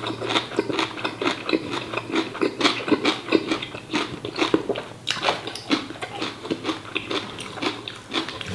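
Close-up chewing and biting of a mouthful of braised pork offal (phá lấu): a dense, irregular run of short mouth clicks.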